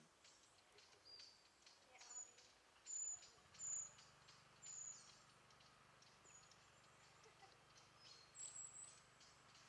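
Faint woodland quiet with a small bird's short, very high chirps, about one a second, loudest around three to four seconds in. A faint low hum sets in partway through.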